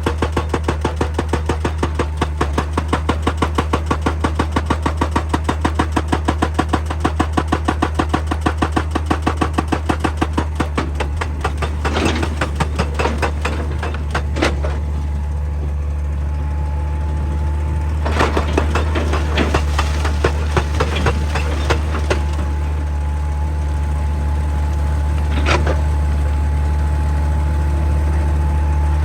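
Excavator-mounted hydraulic rock breaker hammering rapidly, several blows a second, over the steady drone of the diesel engine. The hammering stops about a third of the way in, leaving the engine running with a few short bursts of hammering after.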